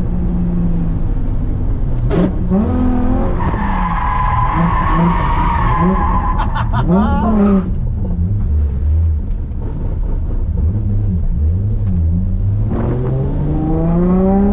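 Holden VY Commodore Calais engine revving up and down while drifting, with the tyres squealing for a few seconds in the middle. The engine revs climb steadily near the end.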